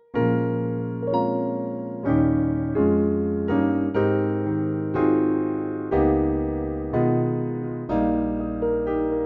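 Electric piano patch from the MKSensation Xtreme iPad sound module, playing a slow run of sustained chords. A new chord is struck about once a second, and each one fades gently before the next.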